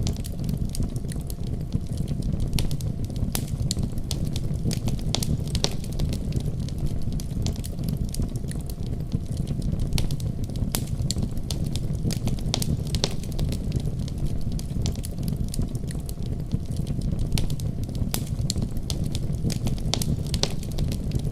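Wood fire crackling, with irregular sharp pops and snaps, over a steady deep rumble of a winter snowstorm.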